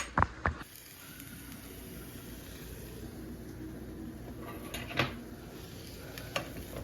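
Eggs sizzling softly in a frying pan, with a few clicks of a utensil against the pan at the start and a single louder knock about five seconds in.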